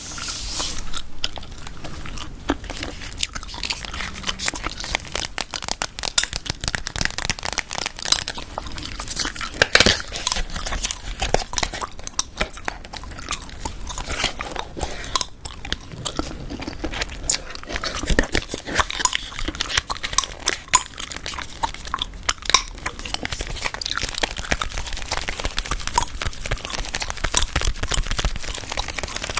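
Close-miked gum chewing: a dense, irregular run of small wet clicks and snaps from the gum being worked in the mouth.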